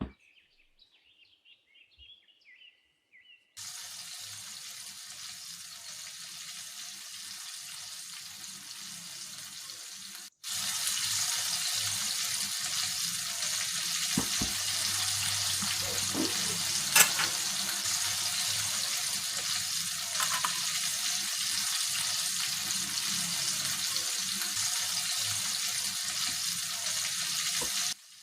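Chicken sizzling steadily in hot oil as it deep-fries. The sizzle is softer at first, drops out briefly about ten seconds in, and comes back louder, with one sharp click partway through.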